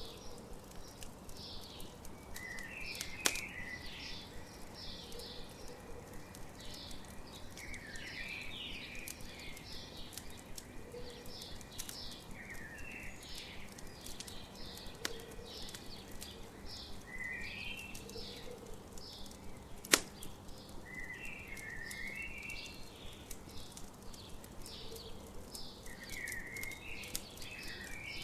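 Campfire crackling with scattered sharp pops, the loudest about 3 s and 20 s in, under morning birdsong of quick high chirps and short falling phrases repeated throughout.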